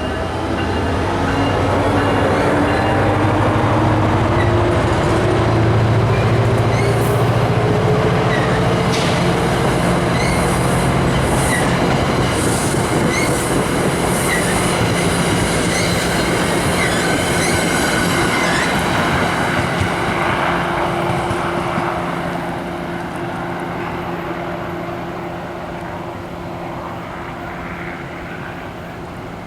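A train passing close by, its wheels squealing and clicking over the rail joints. The sound swells in the first couple of seconds and stays loud, then fades away over the last several seconds as the train moves off.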